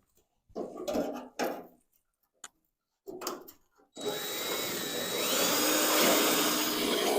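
Power drill cutting into sheet metal, first in several short bursts, then running steadily from about four seconds in with a whine that rises in pitch.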